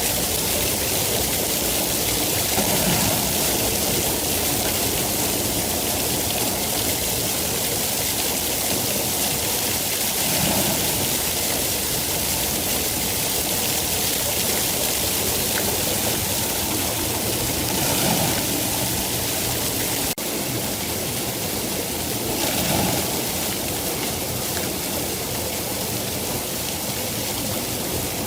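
Steady rain, a dense even hiss with a few slight swells and a sudden momentary drop about two-thirds of the way through.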